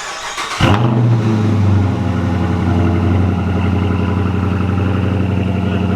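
Cold start of a 2016 Dodge Challenger R/T's 5.7-litre HEMI V8: the starter cranks briefly, the engine catches under a second in, flares up loudly, then settles into a steady cold idle.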